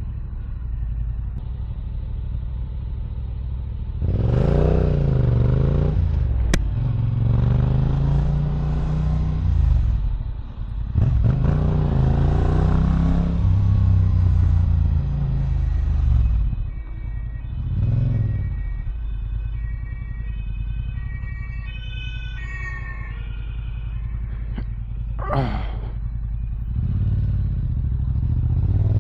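Yamaha R7's CP2 parallel-twin with an Akrapovic exhaust, ridden at low speed: it settles near idle between several short throttle blips that rise and fall in pitch, with one quick rise and drop a few seconds before the end.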